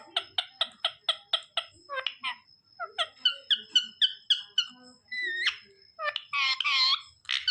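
Pet parrot vocalizing: a rapid run of short, high chirps at about four a second, then whistled notes and a longer wavering call near the end.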